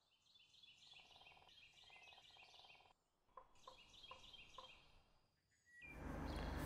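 Near silence with faint, rapid high chirping like small birds in two runs, broken by a short gap and a few soft ticks. A low, steady hum of room tone comes in near the end.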